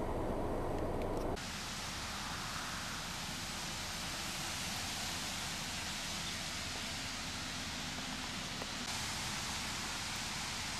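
Steady hiss of heavy rain falling. About a second and a half in it cuts abruptly from a louder, deeper rumbling noise.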